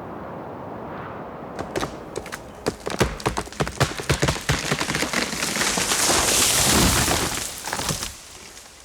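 Bighorn sheep rams fighting in the rut: a run of sharp, irregular cracks and clatters of clashing horns, with a swelling hiss that peaks and then stops about eight seconds in.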